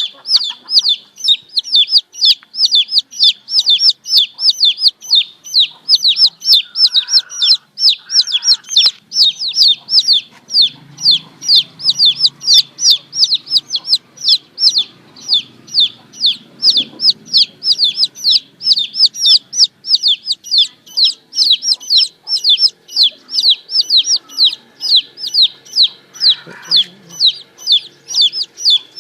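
Domestic chicks peeping loudly and without a break: a rapid string of short, high notes, about three a second, each sliding down in pitch.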